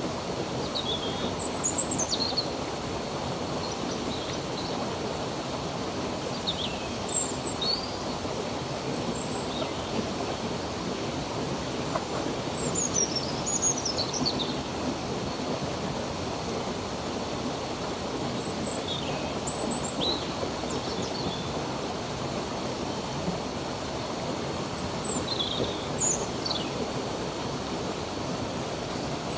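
Steady rush of running stream water, with small birds chirping now and then in short, high, falling notes, in clusters every few seconds.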